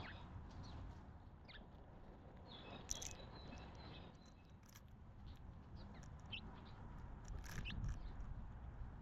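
Small birds chirping now and then, short high calls scattered through, with a sharp click about three seconds in and another near the end, over a faint low rumble.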